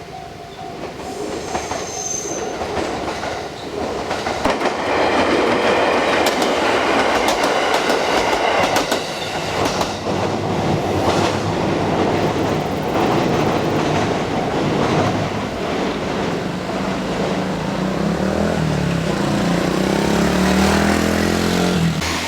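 Electric train passing over a level crossing, its wheels clacking over the rail joints. The sound builds over the first four or five seconds and then stays loud.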